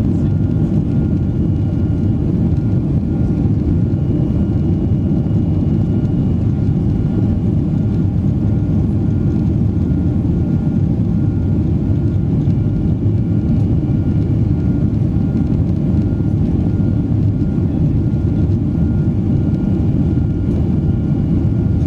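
Steady, loud roar of a Boeing 737's jet engines during the takeoff climb, with a faint high whine that comes and goes.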